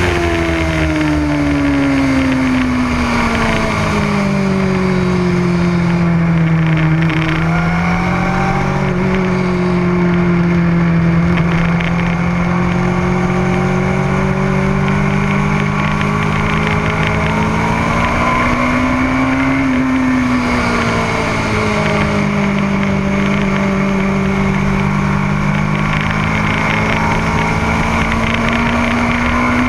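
A motorcycle engine running at speed on a race track, heard over a steady rushing noise. Its note falls over the first several seconds and then holds. About two-thirds of the way through it rises briefly and drops back, then it climbs slowly near the end.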